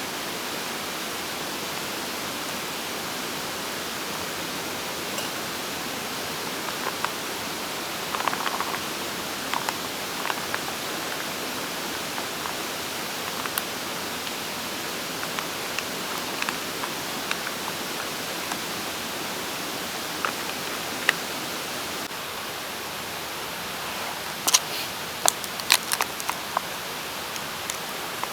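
Steady rushing of a mountain stream in a gorge. Over it come scattered small clicks and taps, bunched together a few seconds before the end.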